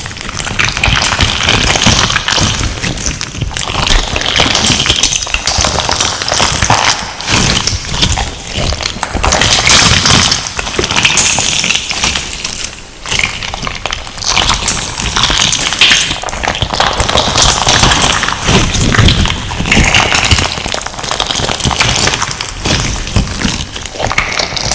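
Crunchy slime set with gem-like crystal pieces being squeezed and pressed, giving dense crackling and popping that swells and eases every second or so, with an echo effect on the sound.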